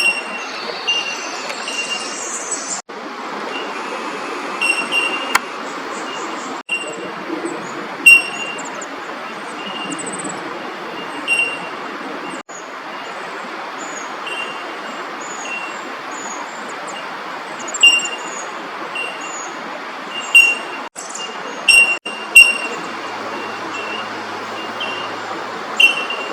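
Fairy-wrens chirping in many short high calls over a steady hum of road traffic. The sound drops out for an instant several times.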